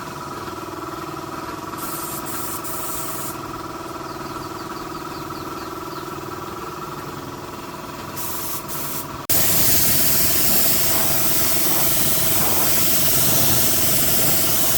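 A steady machine hum with a few fixed tones, broken by short hissing spray bursts, then a loud continuous spray hiss that starts abruptly about nine seconds in.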